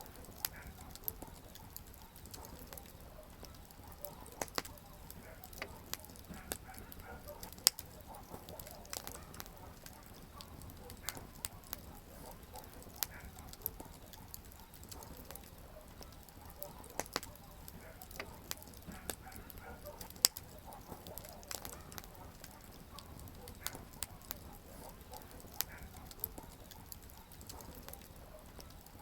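Wood campfire crackling: irregular sharp pops and snaps from the burning firewood over a low, steady rush of flame, with two louder pops about a third of the way in and again past the middle.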